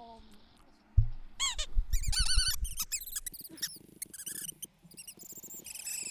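Small birds perched on a wire chirping and twittering in rapid, high-pitched squeaky calls. The calls start just after a thump about a second in and carry on in quick runs.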